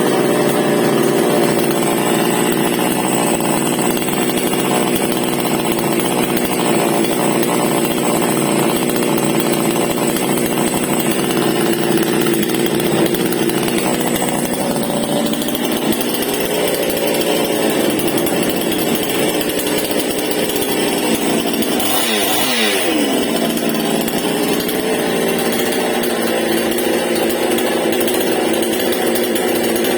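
Stihl MS 788 two-stroke chainsaw running steadily at high revs. About two-thirds of the way through, the engine speed drops sharply and then picks back up.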